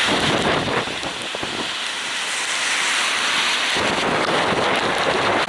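Steady rushing of a flood-swollen river in spate, mixed with wind buffeting the microphone; the low wind rumble drops away for about two seconds in the middle, then returns suddenly.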